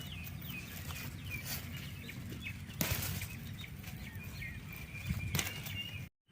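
Small birds chirping, a run of short falling notes followed by a thinner held note, over a steady low background rumble. Two brief knocks stand out, and the sound drops out for an instant just before the end.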